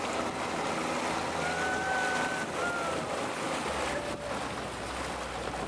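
A boat running on open sea, with waves and wind on the microphone.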